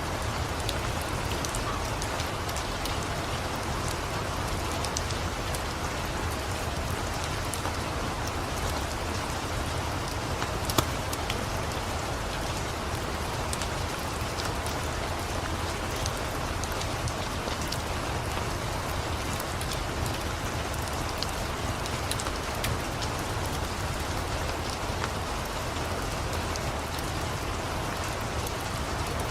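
Steady rain with a wood fire crackling over it in scattered sharp pops, one louder snap near the middle.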